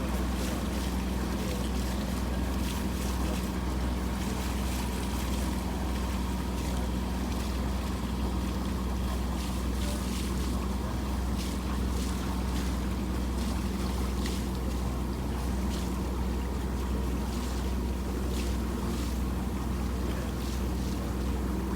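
A boat under way: a steady low engine drone, with water splashing and wind.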